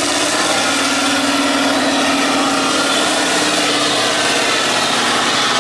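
Trial truck's diesel engine running at steady revs.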